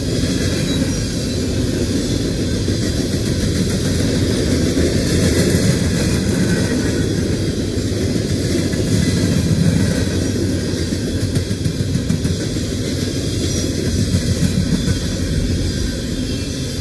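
Empty coal hopper cars of a freight train rolling past: a steady rumble of steel wheels on rail.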